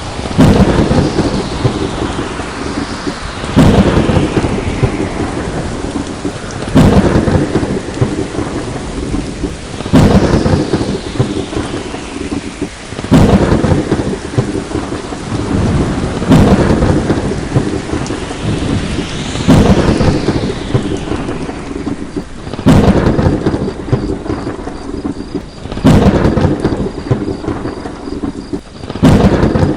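Thunderstorm: steady heavy rain with a sharp thunderclap about every three seconds, each fading off into a rumble.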